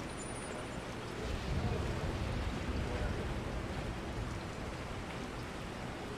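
Steady rain hiss, with a low rumble swelling up about a second in and fading over the next couple of seconds.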